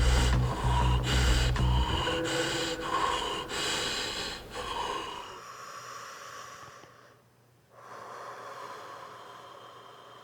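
Rhythmic, heavy breathing and gasping sounds, a burst about every half second, over a low sustained bass drone that stops about two seconds in; the breaths fade out after about five seconds, leaving a faint sustained tone.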